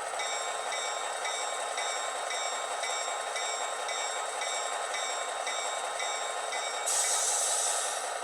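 An ESU Loksound v5 decoder plays a diesel locomotive bell through two tiny sugar-cube speakers in an HO-scale Atlas MP15DC. The bell rings steadily at a little under two strokes a second over the idling engine sound. Near the end it gives way to a short burst of hiss.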